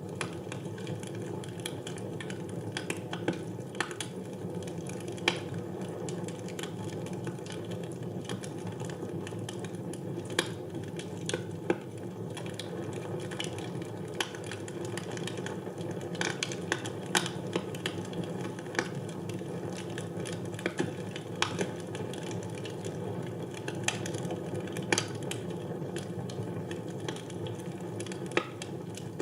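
Wood fire burning in a fireplace: a steady low rushing of the flames, broken by irregular sharp crackles and pops.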